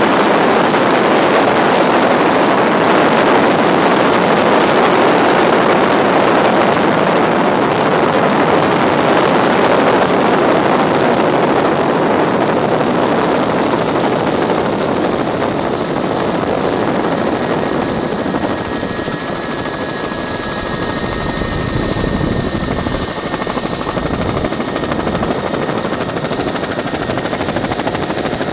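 Tour helicopter in flight, its rotor and turbine giving a loud, steady rush. About halfway through the rush loses some of its treble, a low rotor beat grows stronger, and a thin turbine whine comes through.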